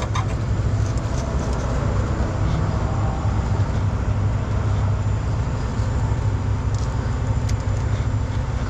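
Heavy diesel truck engine idling steadily, with a low, even rumble.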